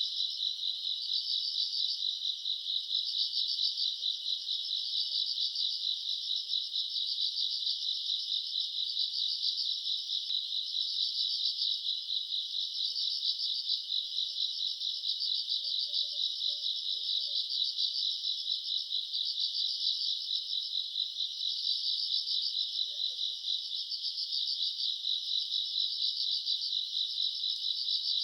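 A dense chorus of crickets and other night insects on a summer night, a continuous high-pitched trilling that pulses rapidly and swells and ebbs slightly.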